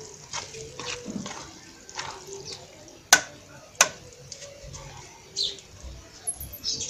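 Birds chirping in the background, with a scatter of sharp clicks; the two loudest clicks come about three seconds in and just under a second later.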